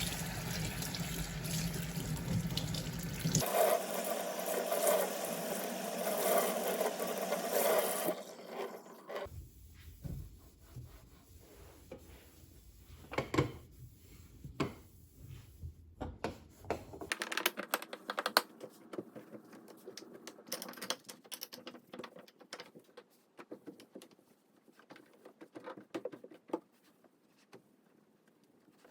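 Water running steadily for about eight seconds, then a series of light clicks and knocks from objects being handled.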